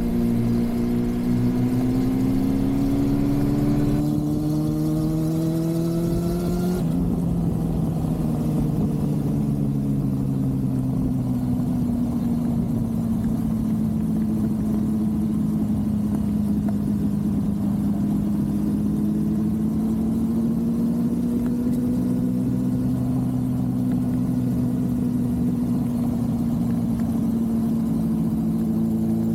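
Honda CB400SF's inline-four engine pulling under acceleration, its note rising steadily for several seconds. About seven seconds in the note drops abruptly, then holds lower and steadier with slow gentle rises and falls as the bike cruises.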